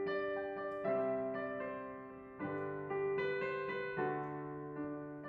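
Gentle piano music, a series of chords struck about once a second and left to ring.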